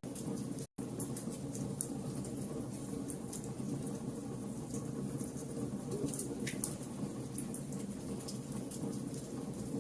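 Wood fire burning: a steady low rumble with scattered sharp crackles and pops, broken by a brief dropout to silence just under a second in.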